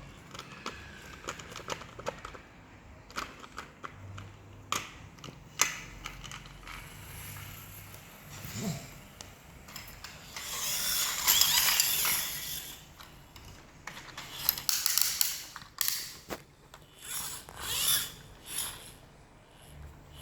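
Small plastic toy trucks being handled: scattered sharp clicks and rattles, with a longer scraping rattle about halfway through and more clattering bursts near the end.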